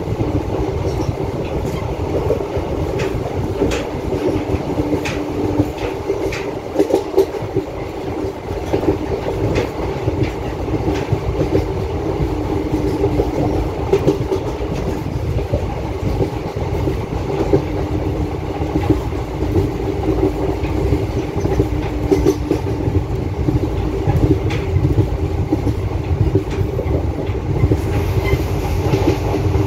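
Express passenger train running at speed, heard from an open coach doorway: a steady rumble of wheels on the track, with irregular clicks and clatter as the wheels pass over rail joints.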